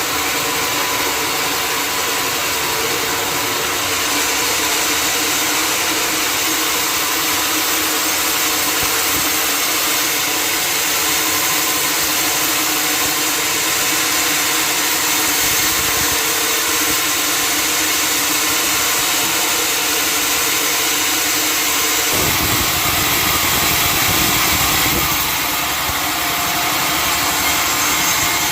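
Sawmill running steadily, its motor humming under a dense hiss of the saw cutting through a large log. The low end of the hum shifts and grows stronger about 22 seconds in.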